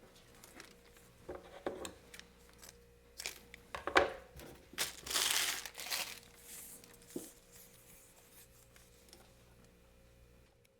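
Pinstripe tape being handled and cut to length: crinkling and small clicks, a sharp click about four seconds in, then a longer papery rustle and tear of the tape and its backing.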